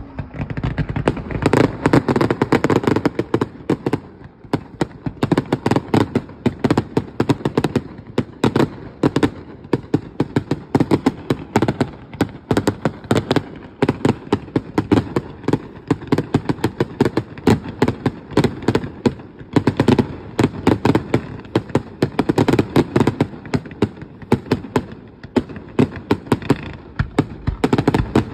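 Fireworks display going off in a fast, continuous barrage of bangs and crackling, many reports a second, easing only briefly twice.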